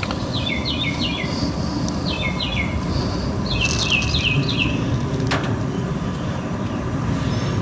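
A bird calling in three short runs of quick falling chirps over a steady low rumble. There is a single sharp click about five seconds in.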